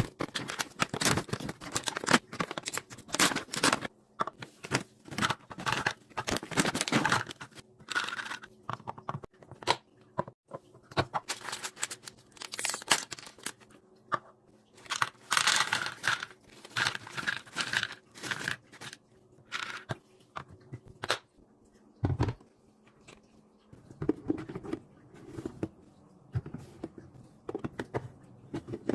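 Packaging being torn open and crinkled while snacks and drinks are unpacked into a mini fridge: irregular rustling, tearing and small clicks and knocks, with one low thump about three-quarters of the way through.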